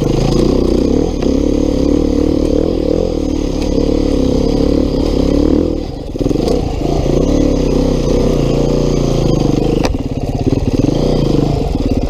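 Beta 390 RR-S single-cylinder four-stroke enduro engine running under changing throttle as the dirt bike is ridden along slippery single track, its pitch rising and falling, easing off briefly about halfway through.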